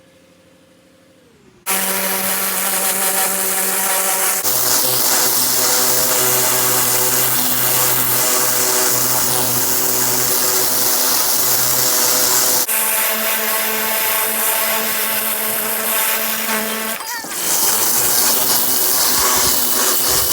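A power tool running steadily at high speed, with a hissing top and a steady whine, starting suddenly about two seconds in and changing pitch abruptly a few times as separate stretches of work follow one another.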